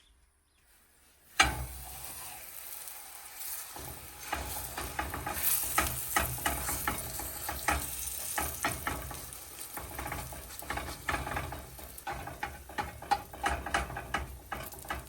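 Food frying in a hot pan: a sharp sizzle starts suddenly about a second and a half in as food goes into the hot fat, then a steady sizzle with many quick clicks and scrapes of a utensil stirring or turning it.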